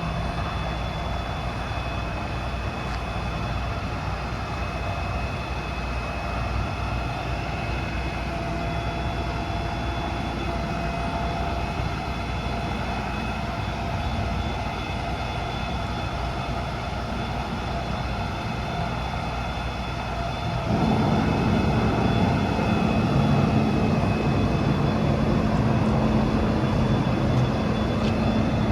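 Diesel truck engine running steadily. About twenty seconds in, the sound steps up louder and deeper and holds there.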